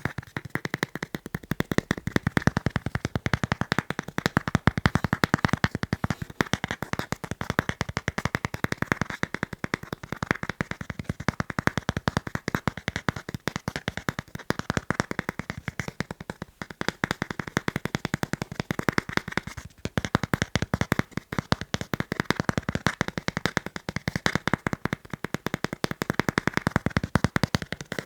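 Fast, continuous tapping on the items of a fan-club membership kit: sharp taps, many per second, in a steady stream.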